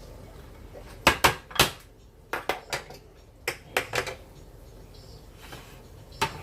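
Kitchen utensils clinking and clanking against dishes and pots in a series of sharp, irregular knocks, the loudest three close together about a second in, with more scattered through.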